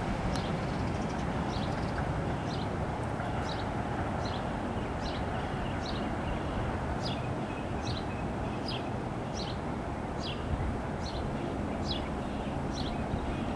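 A bird repeating a short, high, falling call about once every second or less, over a steady low rumble.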